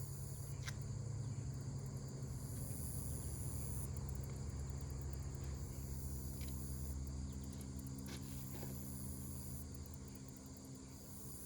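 Insects chirping in high-pitched pulsing bursts over a low steady hum, with a few faint taps.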